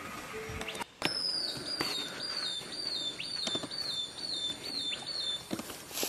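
A bird calling: a quick run of short, downward-slurred high whistles, about three a second, stepping slightly lower in pitch over about four seconds, over forest background noise.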